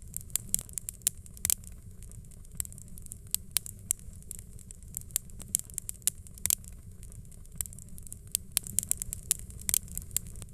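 Fireplace fire crackling: many irregular sharp pops and snaps over a steady low rumble of the flames.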